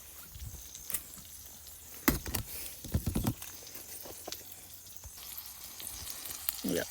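Wood campfire crackling and popping with scattered sharp snaps, and a few dull knocks about two and three seconds in.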